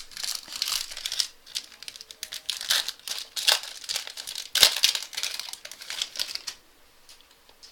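Trading card pack wrapper crinkling and tearing as the pack is ripped open by hand, in rapid irregular crackles with one sharper crack a little past halfway. The crinkling stops about a second before the end.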